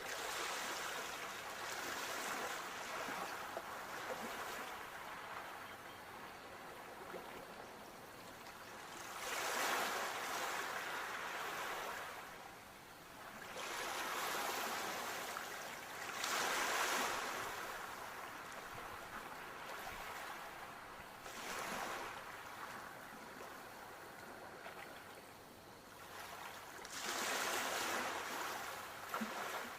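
Sea waves breaking and washing up on a shore, swelling and fading again every five to seven seconds, about five times.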